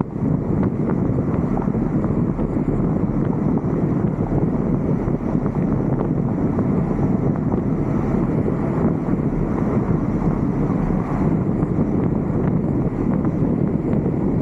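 Steady wind rush over the microphone of a roof-mounted camera, blended with the road noise of a vehicle driving.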